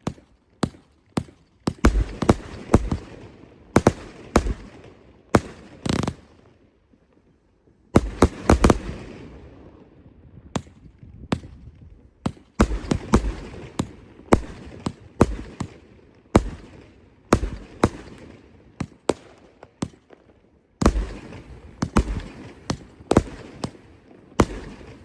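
Fireworks going off, many sharp bangs in quick succession with short crackling tails. There is a brief lull about six seconds in and another about twenty seconds in.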